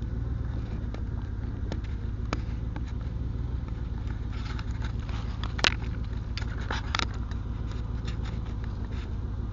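An engine idling with a steady low rumble, with scattered metal clicks and clanks over it and one sharp metallic clack about five and a half seconds in.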